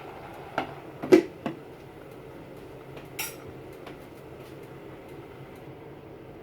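A cooking utensil knocking and clinking against a pan about four times while stir-frying vegetables; the second knock is the loudest, and the last, near the middle, is a brighter scrape-clink. A steady low hum runs underneath.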